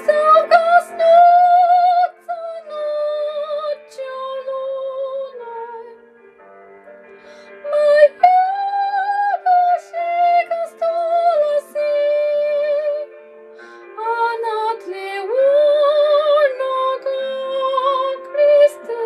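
A woman singing a Russian romance in long held notes with vibrato, over a soft sustained accompaniment.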